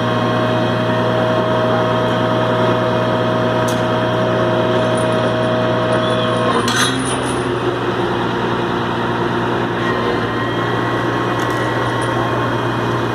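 Heavy vehicle engine running steadily, with a brief click about halfway through as its note shifts.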